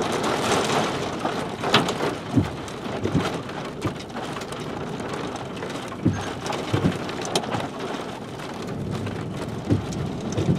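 Rain falling steadily during a thunderstorm, an even hiss broken by scattered sharper taps of drops.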